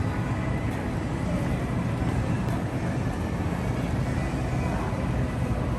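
Steady hum and hiss of a car interior: engine and road noise heard from inside the cabin.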